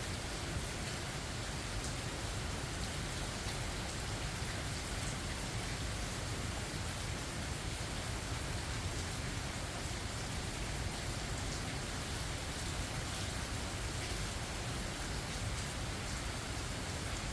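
Steady rain falling, an even hiss of drops with no break or thunderclap.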